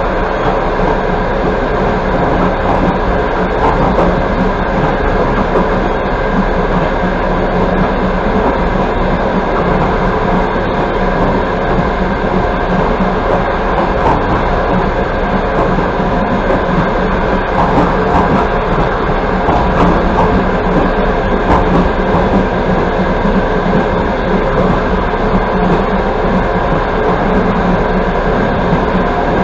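Passenger coach of an express train running at speed: steady rumble and hiss of wheels on rail, with a few faint clicks.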